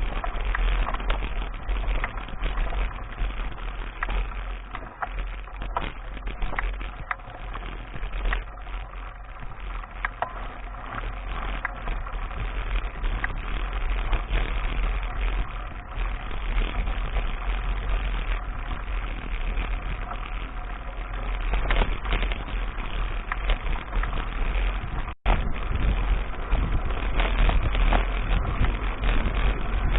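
Wind buffeting the microphone of an action camera on a moving mountain bike, with rattles and clicks from the bike and camera mount over a rough track. The sound cuts out for an instant about 25 seconds in.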